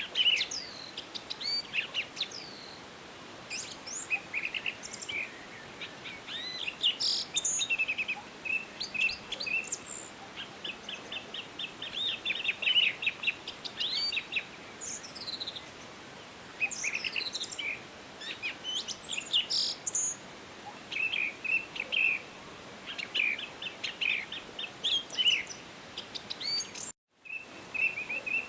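Several songbirds chirping and singing: rapid trills and short falling whistles overlapping one another, over a steady faint hiss. Near the end the sound drops out for a split second.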